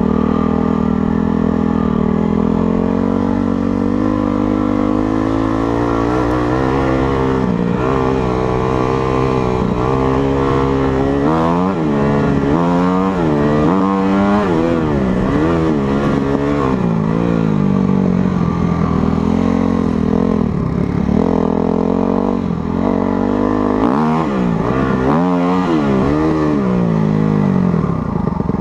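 Motocross bike engine running hard, its pitch rising and falling over and over as the throttle is opened and shut. The swings come fastest in the middle stretch and again near the end.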